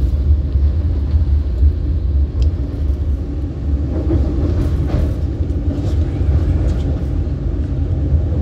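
Market-Frankford Line elevated train running along the track, heard from inside the car: a steady low rumble, with a few faint clicks.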